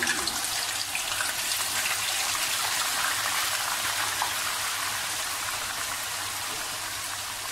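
Blended onion, ginger and garlic paste sizzling as it fries in hot vegetable ghee in a wok, a steady crackling sizzle that eases slightly over the seconds.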